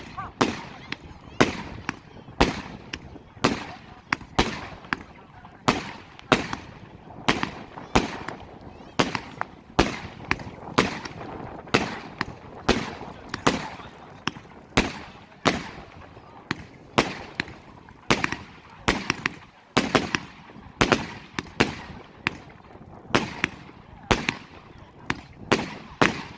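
Extreme Fireworks "Mustang" 100-shot, 30 mm compound battery cake firing: a steady run of sharp bangs about two a second, each trailing off briefly.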